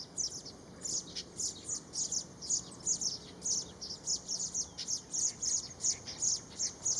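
Baya weavers chirping: a continuous run of short, high chirps, about three a second.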